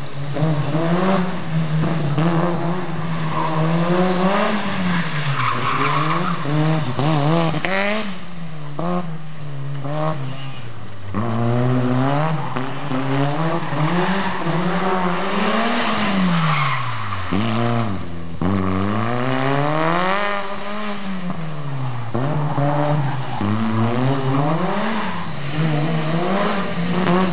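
Audi A4 competition car's engine revving hard, its pitch climbing on each acceleration and falling on each lift-off or shift, over and over as the car is thrown through a tight cone slalom. Tyres squeal at times in the turns.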